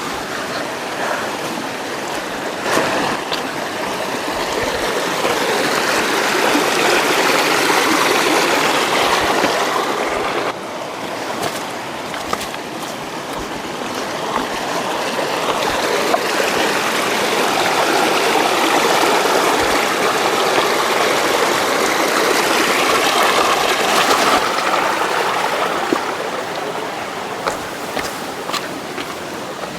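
Stream water flowing steadily, a continuous rushing that swells and eases, dropping suddenly about ten seconds in before building again, with a few faint clicks.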